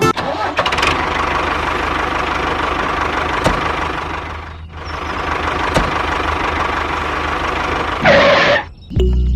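Small motor of a DIY mini tractor running steadily with a rattly hum. It dips briefly about halfway through, then gives a short, louder, higher-pitched burst near the end.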